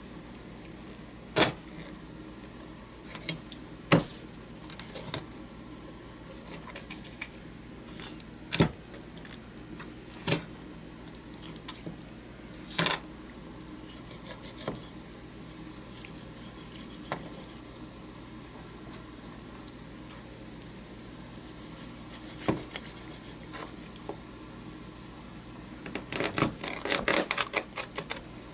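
Large chef's knife chopping through a raw whole chicken onto a plastic cutting board: single sharp chops every few seconds, then a quick run of chops near the end.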